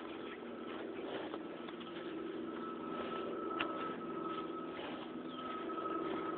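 A car engine idling: a steady low hum with a thin steady whine above it, and a few light clicks and rustles on top.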